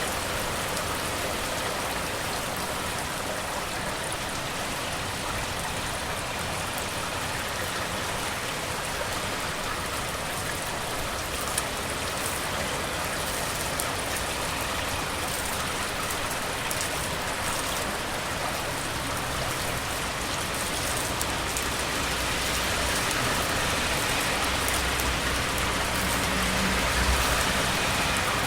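Steady rain falling on hard surfaces: an even hiss with fine crackle of drops. A low rumble swells in the last few seconds.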